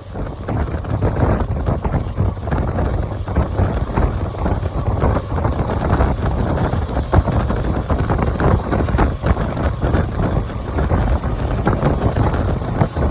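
Passenger train running at speed: a steady rumble with rapid rattling and clicking of the wheels over the track, and wind buffeting the microphone.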